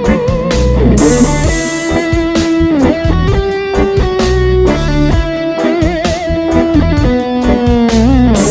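Electric guitar with two ceramic humbuckers played through a Marshall Jackhammer distortion pedal. It plays a heavily distorted lead line of held single notes with vibrato and pitch bends, mixed with short low notes.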